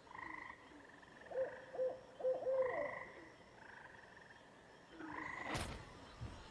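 Night swamp chorus: frogs calling in repeated held trills, with an owl hooting a quick run of about five notes about a second and a half in. A single sharp click comes near the end.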